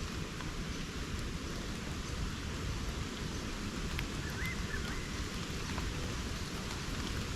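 Steady rain falling on rainforest foliage, with a few scattered louder drips.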